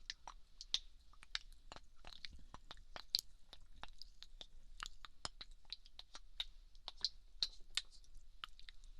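Fingers spreading a dotted-on skincare product, making irregular sticky, wet crackles and clicks, several a second.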